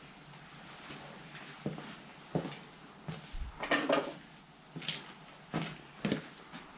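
Hand tools and small metal parts clinking, knocking and rattling during work on a motorcycle's handlebar controls: a string of separate knocks, with a busier rattle a little under four seconds in.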